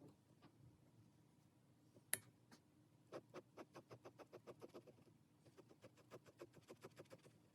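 A sharp click about two seconds in, then quick short pen strokes on paper, about seven a second, in two runs with a brief pause between, as in shading or colouring in a drawing.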